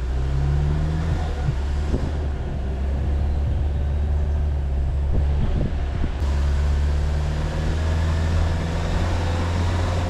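Jeep Wrangler driving, its engine giving a steady low hum, with scattered knocks and rattles over it.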